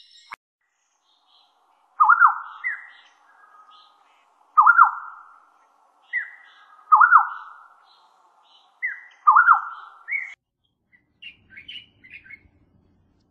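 Black-necklaced scimitar-babbler calling: a phrase of a doubled falling whistle and a short higher note, repeated four times about every two and a half seconds. Near the end this gives way to a few quick, higher chirps of a Styan's bulbul.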